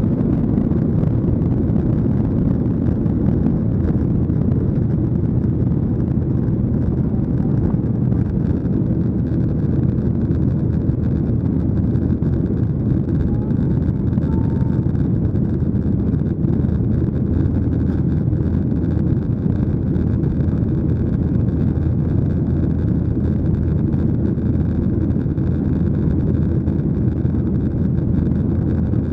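Steady, loud cabin drone of a Boeing 737-800: its CFM56-7B turbofan engines and rushing air, deep and even.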